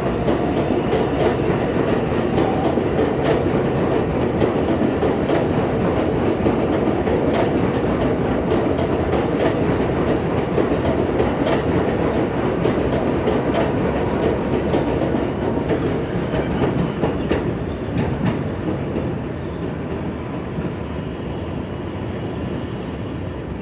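New York City subway train running through the station, a loud steady rumble of wheels on rail with many short clicks from the rail joints. It grows quieter over the last few seconds.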